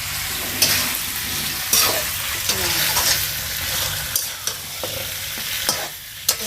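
Food frying and sizzling in hot oil in a cooking pot while it is stirred, with repeated scrapes and knocks of the stirring utensil against the pot.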